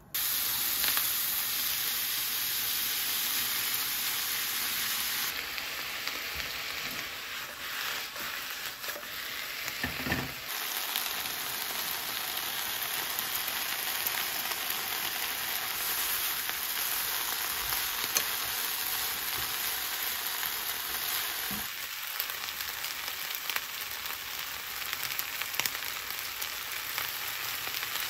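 Sliced pork and then vegetables and yakisoba noodles sizzling in hot oil in a frying pan. The sizzle starts suddenly as the meat goes into the pan and carries on steadily while everything is stir-fried, with light scrapes and taps of wooden chopsticks against the pan.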